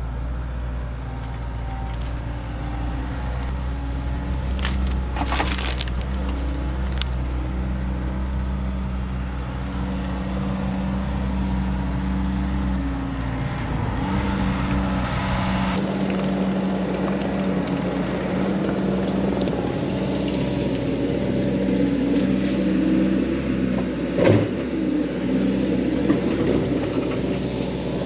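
Diesel engine of a Bobcat T66 skid steer running under load while wood branches crack and splinter, with a crackling burst about five seconds in and a sharp snap near the end.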